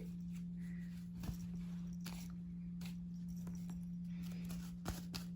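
A few faint taps and scratches from a cat grabbing at a toy bird, over a steady low hum.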